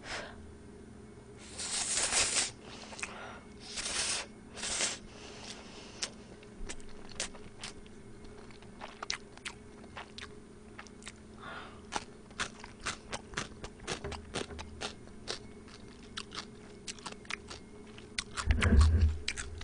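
Close-miked eating. There are a few louder noisy bursts in the first five seconds as spicy stir-fried noodles are eaten, then a long run of sharp crunches as yellow pickled radish is bitten and chewed.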